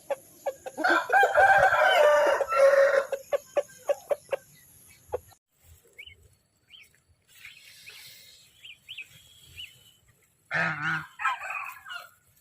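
Chickens clucking in a quick run of short sharp notes, with a rooster crowing loudly about a second in. Faint high chirps follow, and near the end a different, deeper animal call sounds briefly.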